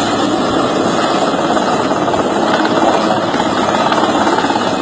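Helicopter running loud and steady close by, its rotor chop and engine filling the sound.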